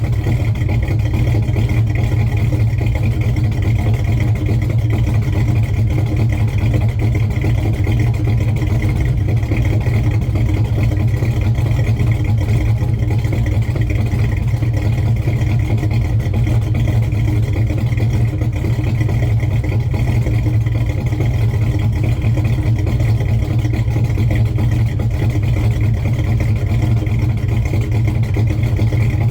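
1970 Chevelle's engine idling steadily, warming up after a cold start.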